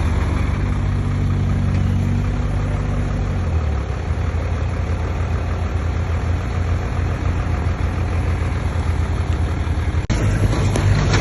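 Komatsu D20P bulldozer's diesel engine running. About three and a half seconds in the engine note drops, and it settles into a steady lower run. There is a brief dropout near the end.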